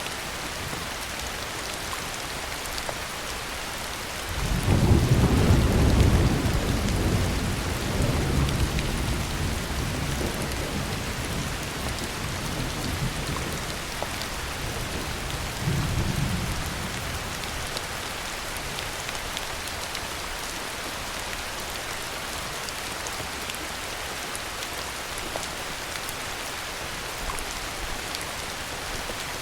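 Heavy rain pouring steadily, with a roll of thunder rumbling in about four seconds in, loudest soon after and dying away over several seconds, and a smaller rumble about sixteen seconds in.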